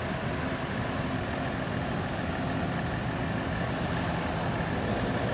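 An engine running steadily at idle: an even low hum with a faint constant higher whine over it.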